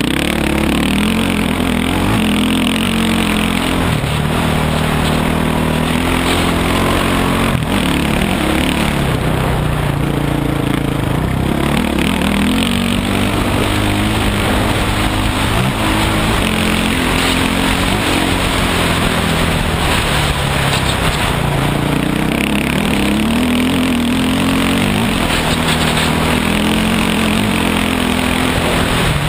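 Dirt bike engine running under way, its pitch repeatedly climbing and dropping as the throttle is worked, over a steady rushing noise.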